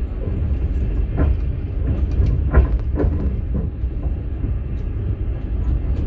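Passenger train car running: a steady low rumble with a few sharp knocks of the wheels over the rail joints, heard from inside a platzkart sleeper car.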